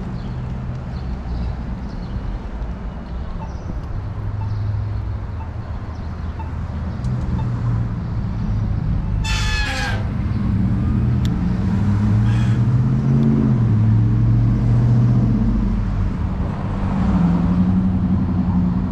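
Road traffic: motor vehicles passing, their low engine hum growing louder through the second half. A brief high-pitched squeal or call cuts through about nine seconds in.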